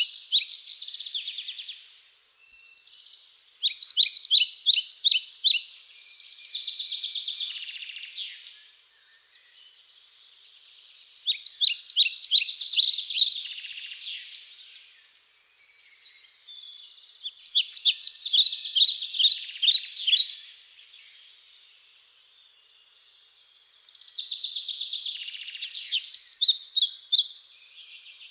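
Forest birds singing: one bird repeats a fast phrase of rapid high notes about every six to seven seconds, five times, with quieter chirps and calls in between.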